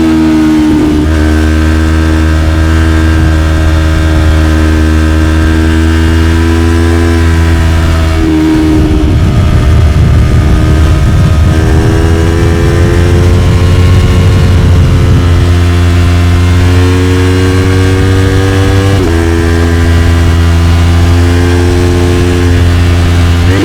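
Yamaha YZF-R3's 321 cc parallel-twin engine through an Arrow Pro-Race slip-on exhaust, ridden hard with the revs climbing through the gears. The note falls away and blurs about 8 seconds in, climbs again from about 11 seconds, and drops sharply and rises again about 19 seconds in at a quick upshift.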